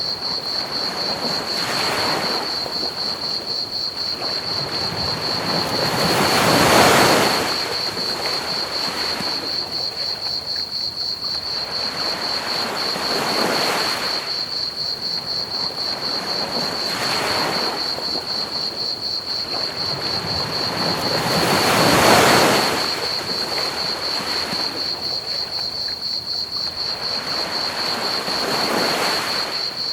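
Ocean waves washing onto a beach in slow swells, two larger waves about a quarter and three quarters of the way through, over a steady high-pitched chirping of crickets.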